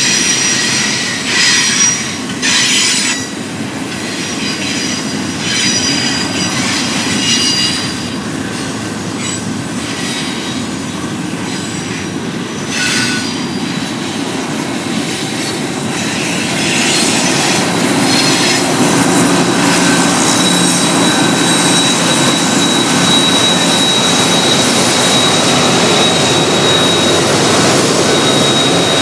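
Cars of a double-stack intermodal freight train rolling past. The wheels squeal in short high bursts over the first several seconds. About sixteen seconds in the rolling noise grows louder, and a steady high squeal sets in at about twenty seconds.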